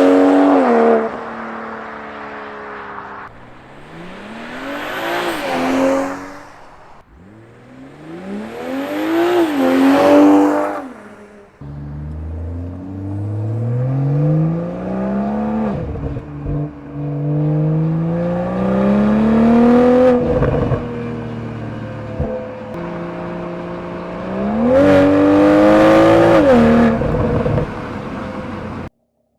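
BMW M340i's turbocharged 3.0-litre straight-six exhaust in a series of short clips: the engine revs up and falls back several times, then accelerates hard with rising pitch and drops at each upshift, and revs up once more near the end.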